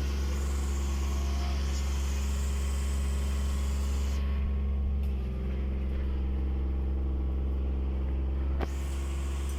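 Heavy-equipment engine running steadily at a constant speed with a deep, even hum. About halfway through the higher hiss falls away for a few seconds, and it ends with a sharp click.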